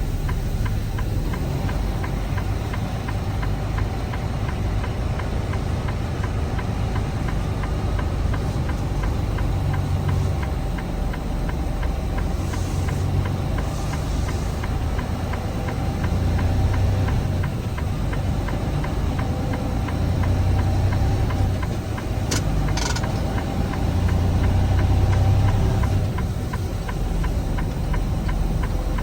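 Semi-truck diesel engine running as the tractor-trailer drives, a steady low rumble that swells in loudness a few times. There is a sharp click about two-thirds of the way through.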